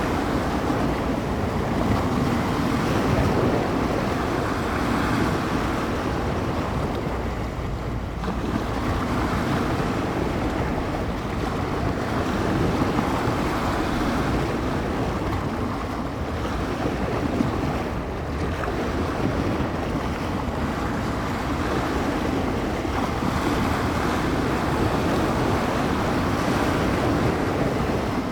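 Waves on San Francisco Bay washing and breaking, in swells every four to five seconds, with wind buffeting the microphone.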